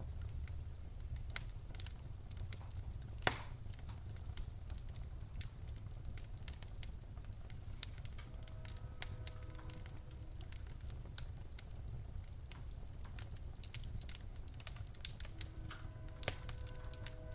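Wood fire in a fireplace crackling, with many small snaps over a steady low rumble of the flames and one loud pop about three seconds in. Faint held tones join about halfway through and again near the end.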